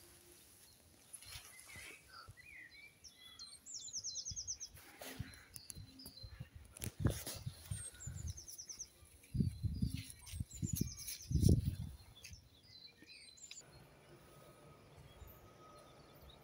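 Small birds chirping and giving short rapid trills from the hedgerow, with a few low thumps on the microphone around ten seconds in. A faint steady hum comes in near the end.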